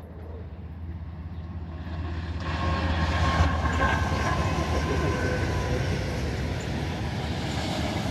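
Freight train passing close by: diesel locomotives approach with a low engine drone that grows louder and peaks as they go by about three seconds in, then the steady rumble of the covered hopper cars rolling past on the rails.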